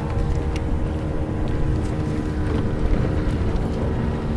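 A watercraft engine running steadily with a low drone, with wind buffeting the microphone.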